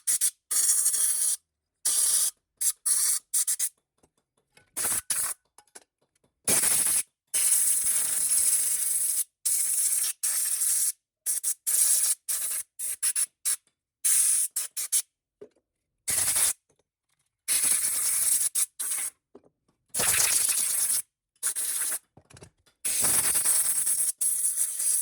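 Repeated short bursts of hissing, scraping work noise, cut off abruptly by gaps of silence between edited clips.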